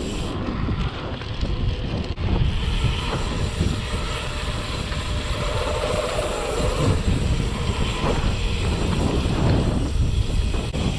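Wind rumbling on the microphone of a camera riding along on a moving mountain bike, a steady low noise throughout.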